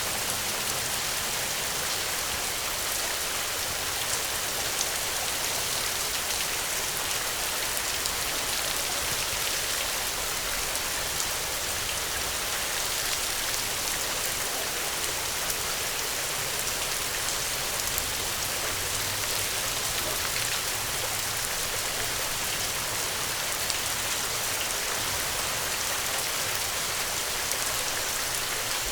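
Steady rainfall, an even hiss with many small drop ticks on hard surfaces.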